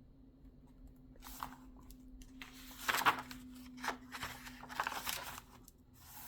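Pages of a book being turned and handled: a few soft paper rustles with a couple of light taps around the middle.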